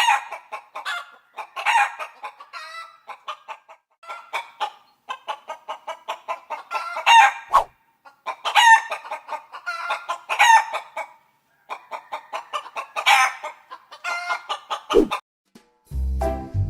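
Chickens clucking repeatedly, with a few longer calls among the clucks. Music starts near the end.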